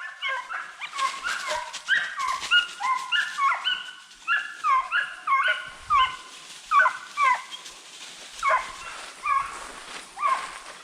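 Several hunting hounds baying in overlapping short calls that drop in pitch, a pack giving voice on the track of a running deer. The calls come thick and fast at first, then more spread out.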